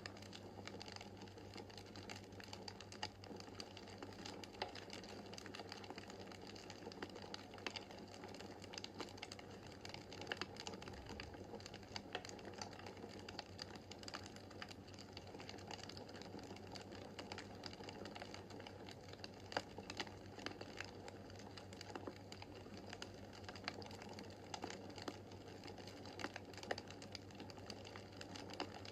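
Wood fire crackling in a fireplace: irregular sharp pops and snaps over a steady low hiss of the burning logs.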